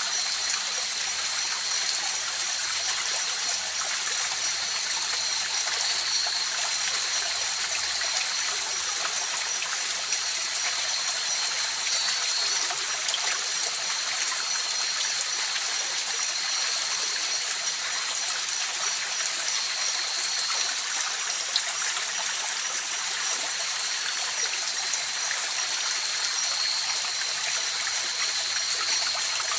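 River water rushing and trickling steadily over rocks, an even unbroken flow, with a steady high-pitched trill running above it.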